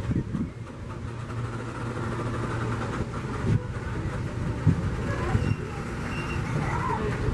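Train running past with a steady low hum, a few short thumps and faint voices mixed in.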